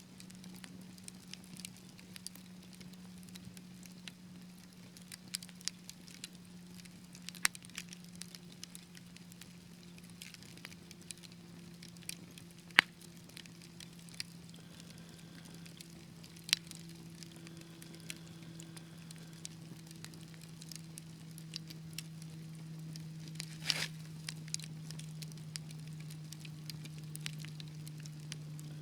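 Wood fire crackling in a fireplace: irregular sharp pops and snaps, a few much louder than the rest, over a steady low hum.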